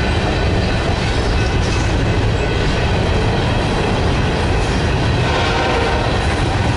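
Herzog ballast hopper cars of a freight train rolling past close by: a loud, steady noise of steel wheels running on the rails.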